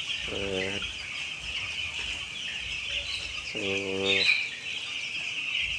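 A flock of ten-day-old broiler chicks peeping continuously, a dense, steady high chatter of many birds at once.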